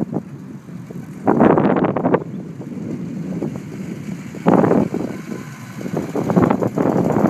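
1954 Land Rover Series 1's four-cylinder petrol engine running as it drives around on grass, with loud surges about a second in and again around four and a half seconds, and building again near the end.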